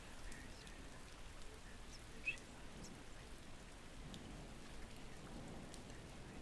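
Faint, steady rain with scattered light drop ticks, and one brief high-pitched blip about two seconds in.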